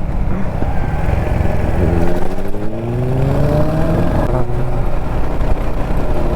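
Kawasaki Z900 inline-four engine running under way, over steady wind and road noise. About two seconds in, its note rises steadily as the bike accelerates. Just past four seconds the note breaks and comes back lower and steady, as with an upshift.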